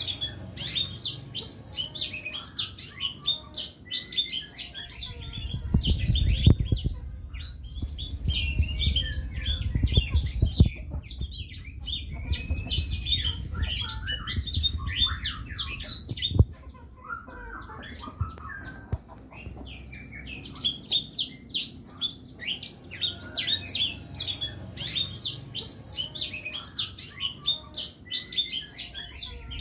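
Blackthroat (yellow-rumped seedeater) singing energetically: long runs of rapid, high, twittering trills. About two-thirds of the way through, the song breaks for a few seconds, leaving only a softer, lower warble, and then resumes. A low rumble sits underneath.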